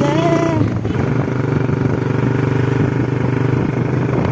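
Vehicle engine running steadily with road noise while riding along, a constant low hum.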